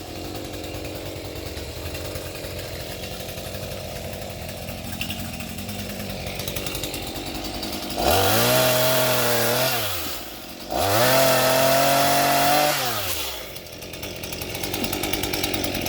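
Two-stroke chainsaw running at low speed, then opened up to high speed twice for about two seconds each, its pitch falling away each time the throttle is let off.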